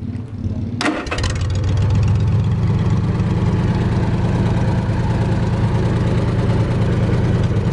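Wisconsin VF4 air-cooled V4 engine of a 1947 Lincoln pipeliner welder being cranked by its starter. It catches about a second in and settles into a steady run.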